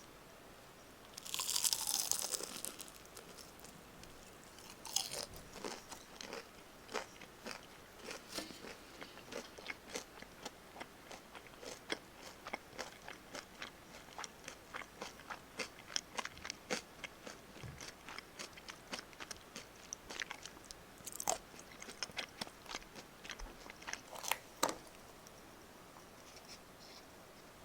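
Crispy karaage (Japanese fried chicken) being bitten and chewed close to the microphone: a loud crunching bite about two seconds in, then a long run of crisp crunches a few per second, stopping near the end.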